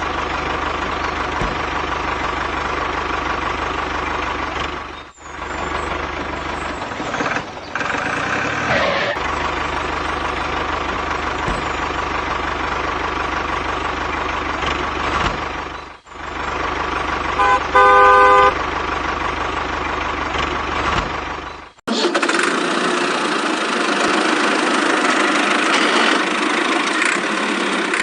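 Tractor engine sound effect running steadily, with a low rumble and a couple of brief dropouts, and a few quick horn beeps about two-thirds of the way through. About 22 seconds in it switches to a different, brighter sound without the low rumble.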